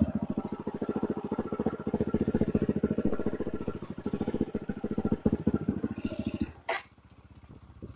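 Enduro motorcycle engine idling with a quick, even beat, then cutting off abruptly about six and a half seconds in.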